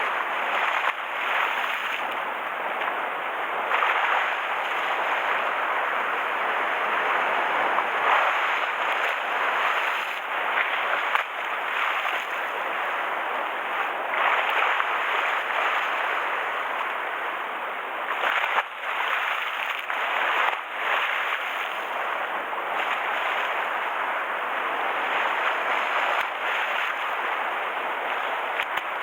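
Rough sea churned up by a typhoon, waves washing and splashing with wind, a steady rushing that surges and eases now and then.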